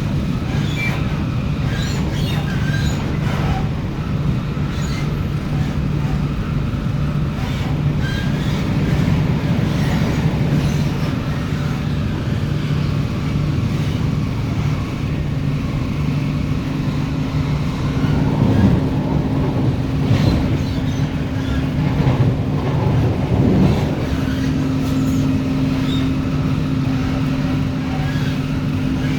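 Running noise of an MTR Tung Chung Line K-Train electric multiple unit at speed, heard on board: a steady low rumble and hum from the wheels and traction equipment, with a higher steady tone from the traction motors coming in about halfway and scattered rattles and knocks from the car body and track.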